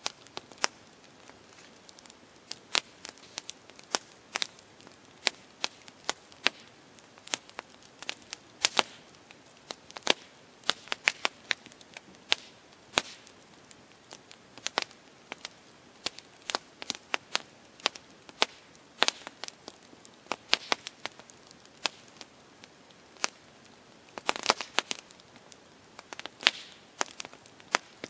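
Campfire crackling: burning wood giving irregular sharp pops and snaps over a faint hiss, with a brief run of quicker crackles near the end.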